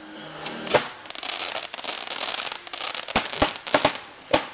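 Multi-shot consumer firework going off: a sharp bang, then about two seconds of dense crackling, then a quick run of separate sharp pops.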